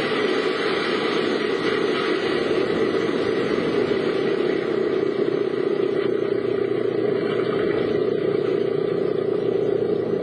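Steady car driving noise: engine and road noise, even throughout.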